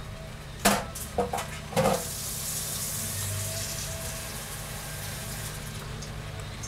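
Fried rice and stir-fry vegetables sizzling in a pan with a steady hiss, as the pan comes back up to heat after the cold leftover rice and vegetables went in. There are a few clattering knocks in the first two seconds.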